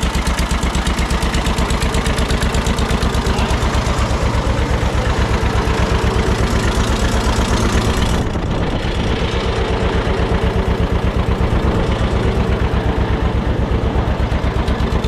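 John Deere 630's two-cylinder engine running with a steady, even beat of exhaust pulses. A little past halfway the sound turns duller and stays so.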